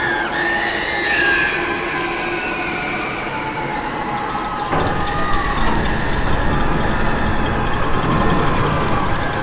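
A recorded sound effect of high, wavering metallic squeals over a dense rumble, which grows heavier and louder about halfway through.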